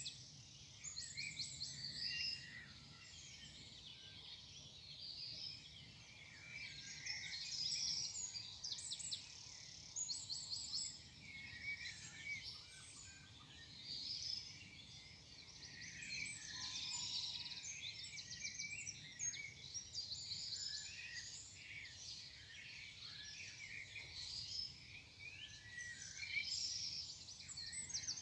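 Morning dawn chorus: several small birds singing at once, overlapping chirps, trills and rapid note series, with a faint low background rumble.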